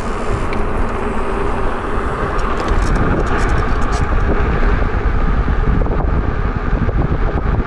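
Wind buffeting the microphone of a rider on a moving e-bike, a loud, steady low rumble with a few faint clicks in the middle.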